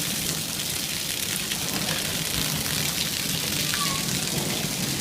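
Heavy rain falling steadily in a severe storm, an even hiss.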